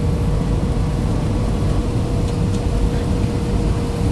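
Airliner cabin noise in flight: the steady rush of engines and airflow, with a constant mid-pitched hum underneath.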